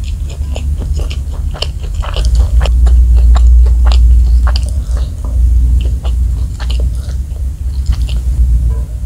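Close-miked chewing of smashed fried chicken (ayam geprek) with chilli sambal: many small wet crackles and clicks over a steady low rumble, loudest about halfway through.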